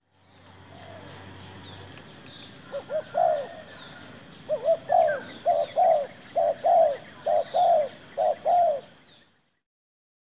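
Spotted dove cooing in repeated phrases, each a couple of short notes and a longer arched one, with small birds chirping high above it and a steady high hiss underneath.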